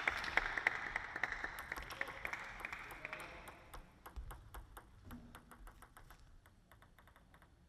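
Spectators' applause in a large hall dying away: dense clapping at first that thins to scattered claps and fades out over a few seconds.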